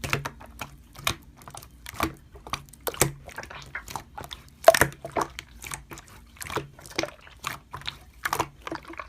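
Slime being squeezed and worked by hand, making a steady run of irregular wet clicks and pops.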